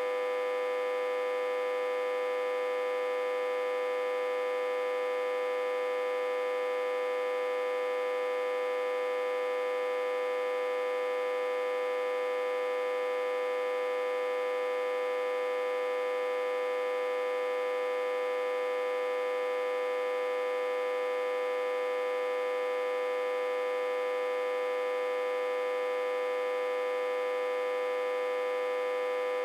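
Autotransformer humming: a steady, unchanging drone made of a strong middle tone with a stack of weaker higher tones. It is reverse-connected to a step-down transformer and fed about 60–80 V, which makes it hum like this.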